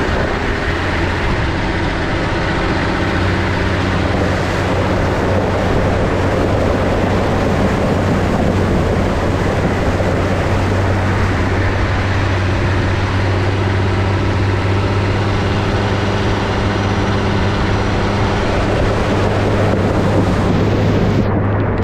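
Nissan GQ Patrol four-wheel drive's engine running at steady revs under a steady rushing noise.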